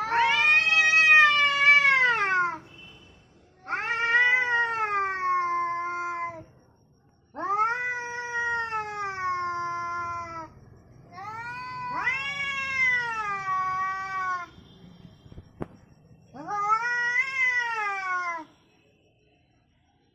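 Domestic cat yowling angrily: five long, drawn-out yowls of two to three seconds each, every one rising and then falling in pitch, with short pauses between them.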